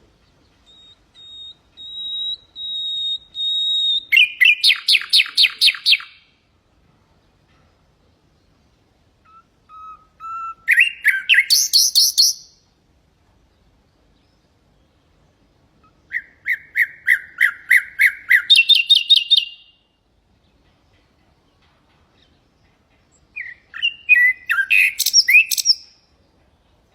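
Common nightingale singing four phrases with pauses of a few seconds between them. The first opens with a long whistled note that swells in loudness, then breaks into a rapid trill. The others are fast runs of repeated notes, some dropping to a lower pitch and jumping back up.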